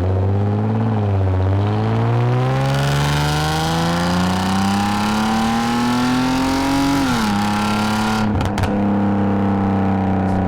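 2010 Lexus IS250 AWD's V6 with aftermarket full exhaust and valved mufflers, pulling under acceleration: the engine note climbs steadily for about five seconds with a growing rasp, drops as the automatic shifts up, then holds steady at cruise. A couple of short clicks come just after the shift.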